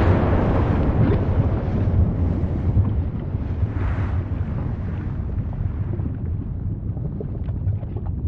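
Volcanic eruption ambience: a steady deep rumble, with a rush of noise at the start that fades over the first few seconds and another short swell about four seconds in. Faint crackles come in near the end.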